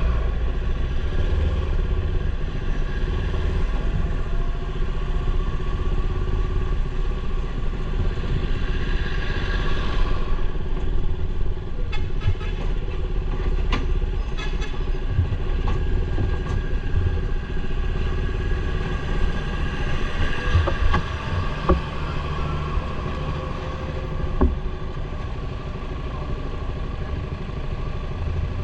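Motorcycle engine running steadily under way, with a constant low rumble. A scatter of sharp clicks and knocks comes midway and again later.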